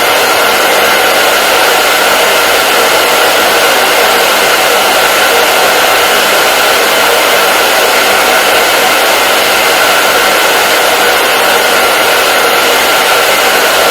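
Hair dryer running steadily: a loud, even blowing hiss with a faint steady whine, unchanging throughout.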